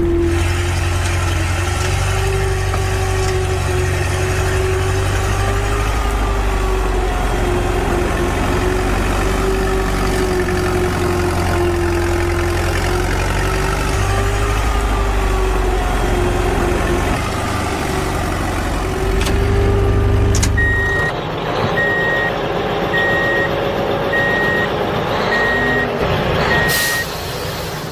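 A steady, slightly wavering motor hum over a low rumble. About three-quarters of the way through it changes abruptly to a vehicle reversing alarm beeping about once a second, six or seven times.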